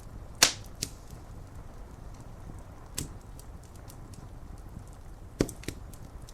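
Wood fire crackling, with sharp pops about half a second in, at three seconds and twice near the end, and small ticks in between, over a steady low rush of rain.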